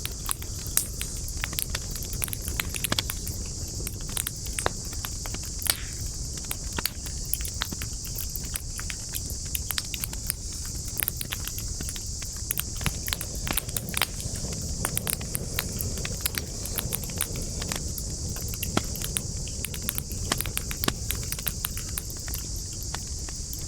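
Wood campfire crackling, with frequent irregular sharp pops and snaps over a low steady rush of flame. A steady high-pitched insect chorus runs underneath.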